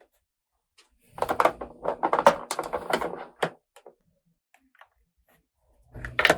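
Small plastic toy pieces clicking and rattling as they are handled, in two bursts: a busy run of clicks for about two seconds, then quiet, then another short flurry near the end.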